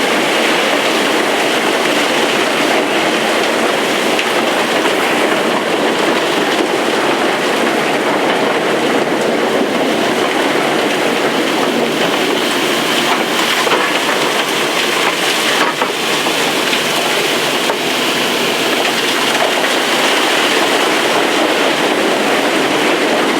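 Underground opal-mining machinery running at full revs, a loud, steady, even mechanical noise with no breaks, as the digger cuts into the face.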